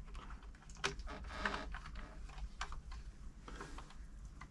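Screwdriver working a small screw into a sewing machine's metal side plate: a few light, irregular clicks and ticks.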